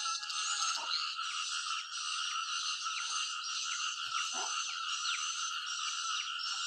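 A dense chorus of frogs calling without pause, a steady pulsing din, with a few deeper croaks standing out now and then.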